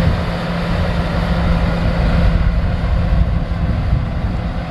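Caterpillar D8 bulldozer's diesel engine running steadily under throttle as the dozer works, a deep rumble with a steady low drone.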